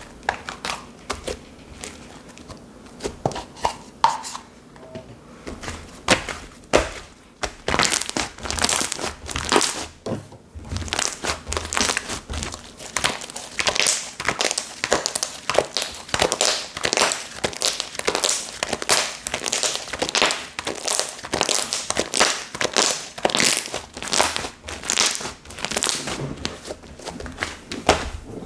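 Hands squeezing, stretching and poking a soft slime, giving a run of sticky crackling and popping clicks, sparse at first and much busier from about eight seconds in.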